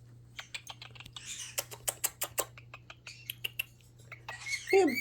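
Small tumbled stones clicking and clacking against one another, a quick irregular run of sharp clicks as they are picked at and moved about.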